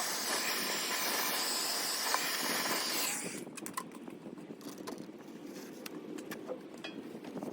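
Steady hissing spray that cuts off suddenly about three seconds in, followed by light clicks and handling noises.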